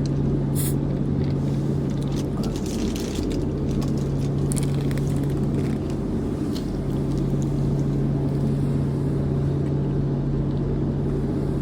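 Steady low drone of a truck engine idling, heard from inside the cab, with a few brief faint clicks and rustles over it.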